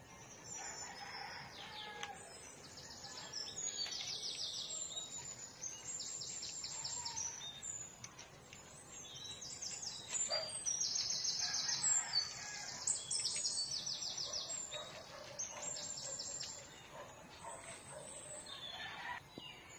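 Small birds chirping in quick, high-pitched runs of repeated notes, coming and going throughout.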